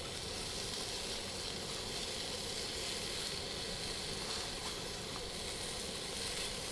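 Oil sizzling steadily in a hot non-stick frying pan, with a few faint ticks.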